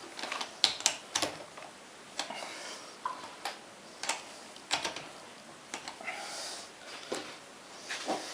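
Irregular light clicks and knocks of metal lathe parts being handled as a workpiece is fitted to a homemade mini lathe. There are about a dozen separate sharp taps, with no motor running.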